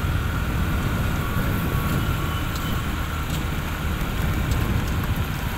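Riding on a small motorbike: the engine running steadily under heavy wind rumble on the microphone.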